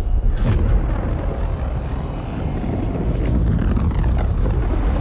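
Airbus A320 airliner in flight with both engines out of thrust after a bird strike: a loud, steady low rumble of rushing air, with a brief whoosh about half a second in.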